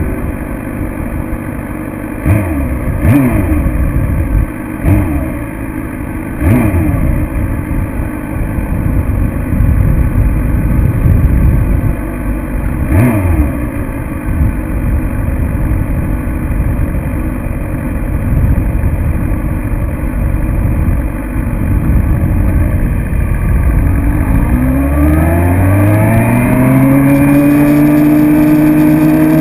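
Motorcycle engine running at low revs with several quick rises and falls in pitch. About 25 seconds in, a 2006 Suzuki GSX-R750's inline-four pulls hard, its pitch climbing steadily under acceleration.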